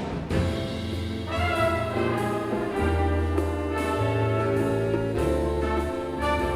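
Big band jazz ensemble playing live, the brass section holding long chords over a bass line that steps to a new note about once a second.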